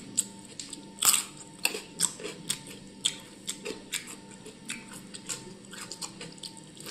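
A person eating rice mashed with curry by hand: wet, irregular smacking and squelching clicks of chewing and sticky mixing, the loudest about a second in.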